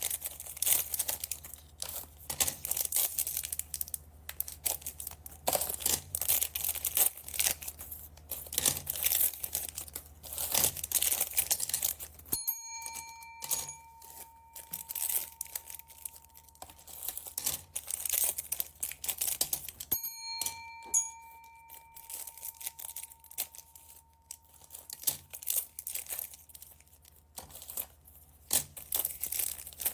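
Plastic bead packets crinkling and being torn open, a dense run of crackling rustles. Twice, at about twelve and twenty seconds in, a clear bell-like ding rings out and fades over a few seconds.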